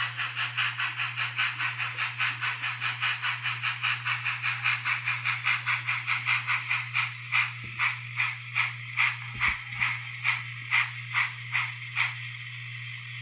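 Sound decoder in an N scale Bachmann 2-8-0 steam locomotive playing steam exhaust chuffs through its small speaker. They come at about six a second at first, slow to about two a second, and stop about twelve seconds in. A steady low humming noise runs under them.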